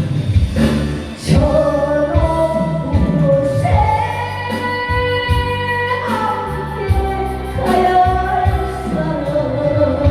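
Singing of a Korean song over a backing track, with a long held note about four seconds in.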